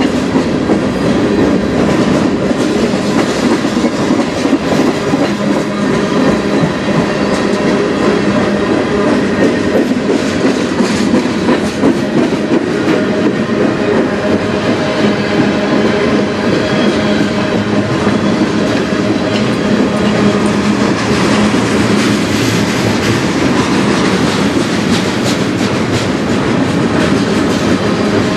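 Freight cars of a CN mixed freight train rolling past at close range: a loud, steady rumble of steel wheels on rail, with a constant run of clicks as the wheels cross rail joints.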